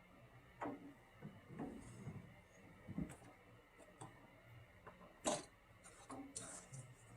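Faint, irregular clicks and light taps, unevenly spaced, with one sharper click about five seconds in.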